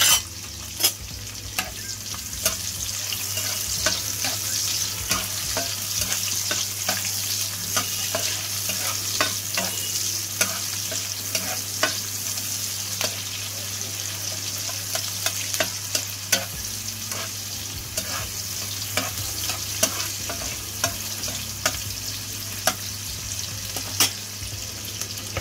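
Chopped onions, garlic and dried red chillies sizzling in hot oil in a nonstick kadai, with a steady frying hiss. A spatula stirs them, scraping and tapping against the pan again and again, with a sharp knock right at the start.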